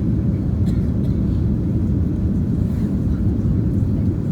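Cabin noise inside a Boeing 787-9 Dreamliner during takeoff: a steady low rumble of the jet engines and airflow.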